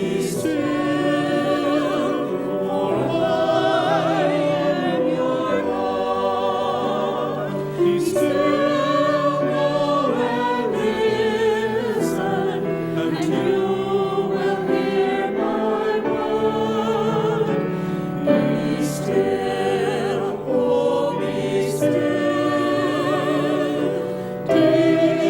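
Church choir singing a sacred anthem, sustained notes with vibrato over a steady low accompaniment.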